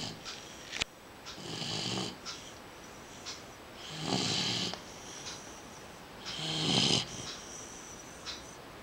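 A sleeping dog snoring: three slow snoring breaths about two and a half seconds apart, each lasting under a second. Faint short clicks fall between them, the sharpest just under a second in.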